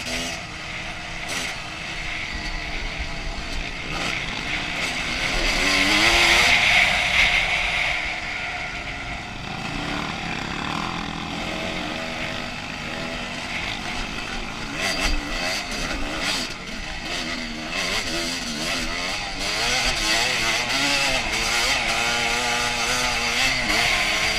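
Honda CR250's single-cylinder two-stroke engine being ridden off-road, revving up and down with the throttle and loudest around six to eight seconds in.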